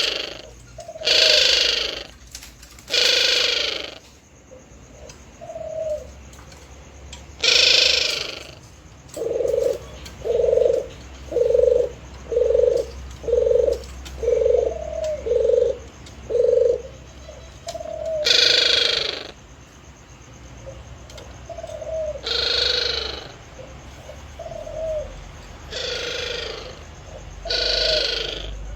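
Male puter doves (Barbary doves) cooing. There is a run of about eight short, low coos, about one a second, in the middle, with scattered single coos elsewhere. Several louder, harsher coos come in between, near the start and again in the second half.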